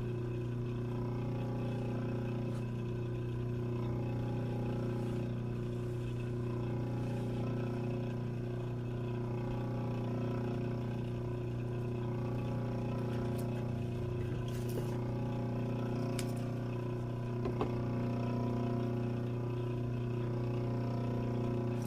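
Steady low electrical or motor hum with a constant pitch, with a few faint light clicks about two-thirds of the way through.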